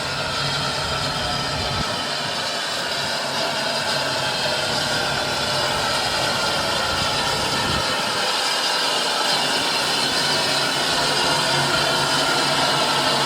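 A train running: a steady rushing noise that grows slightly louder toward the end.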